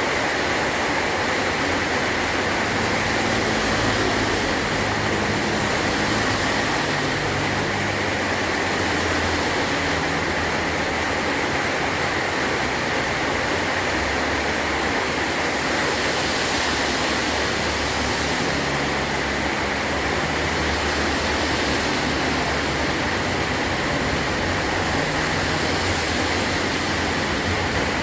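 Heavy rain drumming steadily on a metal tin roof, an even, unbroken hiss with no thunder clap.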